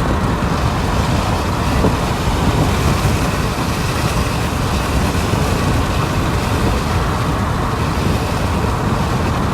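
Steady wind and road noise of a car being driven, heard from inside the cabin.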